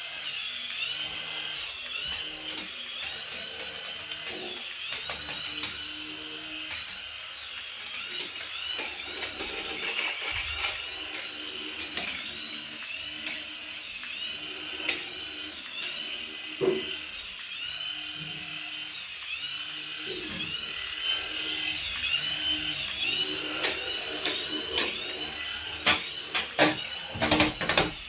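Small electric toy motor whining, its pitch rising and falling over and over, with scattered clicks and a few louder knocks near the end.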